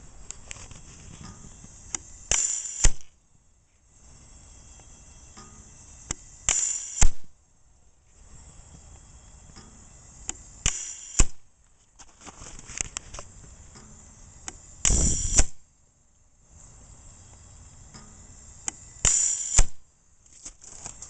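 1965-era Zon propane bird cannon cycling with its sparker removed, so it does not fire: a faint steady hiss of gas filling, then every four seconds or so a short loud rush of gas ending in a sharp click as the valve trips and dumps the charge, followed by a moment of silence. Five cycles, their pace set by the gas flow knob.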